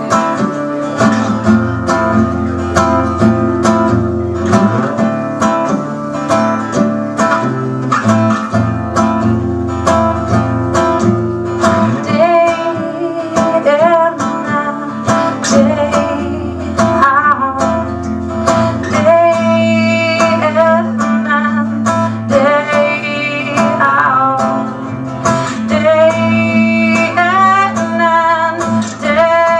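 Acoustic guitar strummed in a steady rhythm through an instrumental passage of a live folk song, with a wavering melody line joining about twelve seconds in.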